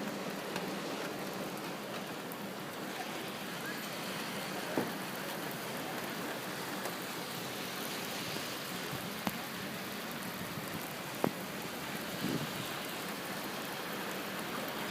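Steady rain falling, with a few sharp drips ticking now and then.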